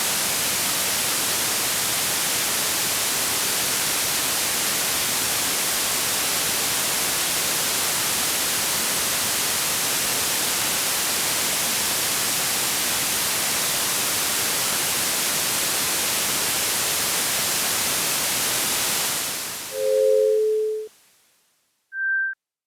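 Steady white-noise hiss that fades out near the end. It gives way to a short low two-note alarm tone lasting about a second, then one brief high beep.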